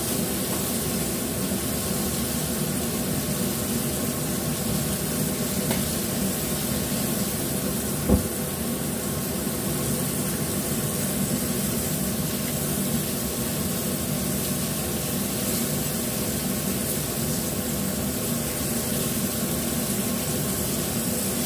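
Flour-coated green mussels sizzling steadily as they fry in oil in a wok, over a faint steady hum. A single short knock comes about eight seconds in.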